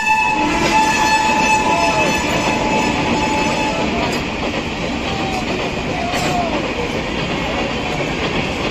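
Express train's passenger coaches rushing past at high speed, a steady roar of wheels on rail with fast clatter. The electric locomotive's horn is dying away in the first second.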